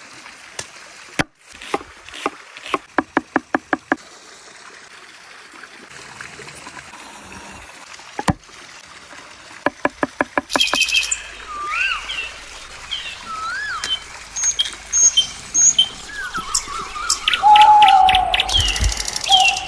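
Birds calling and chirping: short whistled notes that rise and fall, with two runs of rapid, evenly spaced pulses and a few sharp clicks, and busier calling near the end.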